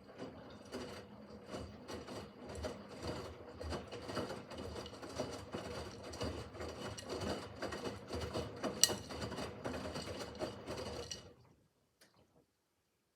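Miele W5801 WPS front-loading washing machine turning its drum during a wash cycle: the motor runs steadily under many small clicks and rattles, with one sharper click about nine seconds in. It stops near the end as the drum pauses between turns.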